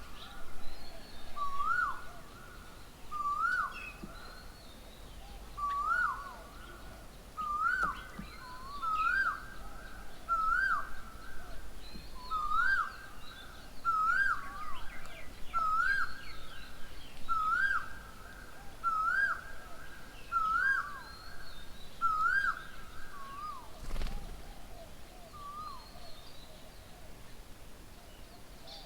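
A bird calling over and over, the same short note sweeping up and then dropping, about every second and a half, then dying away after about twenty seconds. Other birds chirp faintly and higher in the background.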